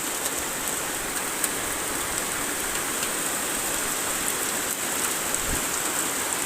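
Steady rain falling, with scattered sharp ticks of drops striking a surface.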